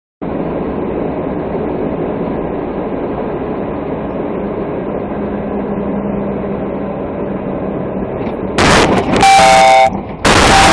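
Steady road noise, then about eight and a half seconds in a loud horn sounds in long blasts, the second starting just after the first ends.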